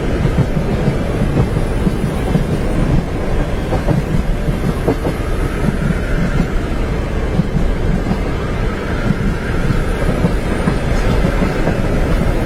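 Train running on the tracks, heard from inside a compartment: a steady low rumble with wheels clicking over the rail joints.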